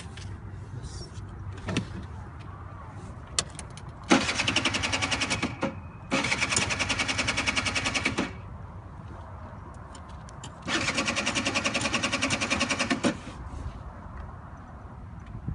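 Small engine of a student-built Shell car running in three bursts of about two seconds each, a rapid even firing rhythm: two close together a few seconds in, a third near eleven seconds. Between the bursts there is a quieter low rumble of the car rolling.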